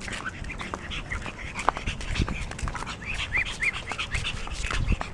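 Small pet dogs tussling, with short high-pitched squeaky yips and whimpers, several in quick succession about three and a half seconds in, over scattered scuffling clicks.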